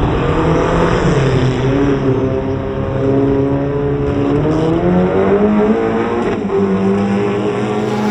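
Drag-racing motorcycle engines running hard on the strip, pitch climbing and dropping several times as they rev.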